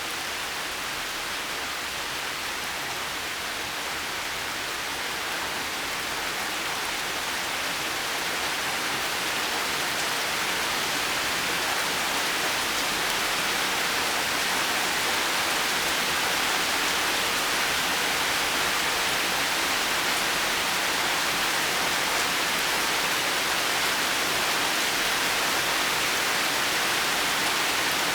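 Steady heavy rain, an even hiss that grows a little louder around ten seconds in and then holds.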